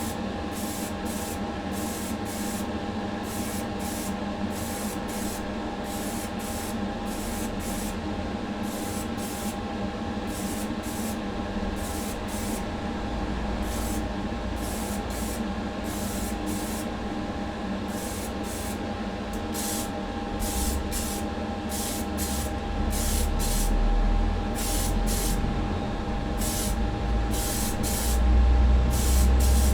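Paint spraying: primer and then a colour coat going on in many short hissing bursts over a steady hum. A low rumble grows louder in the last third.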